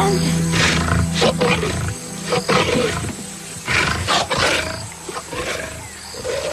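A lion and lioness growling in a series of short, harsh bursts during mating. Background music fades out about two seconds in.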